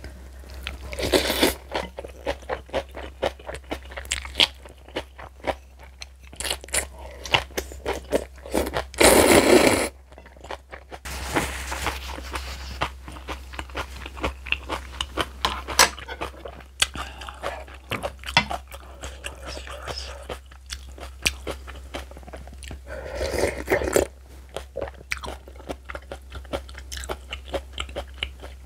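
Close-miked eating of spicy kimchi and noodles: a rapid run of crisp crunches and chewing mouth sounds, with a few longer, louder noisy stretches, the loudest about nine seconds in. A steady low hum runs underneath.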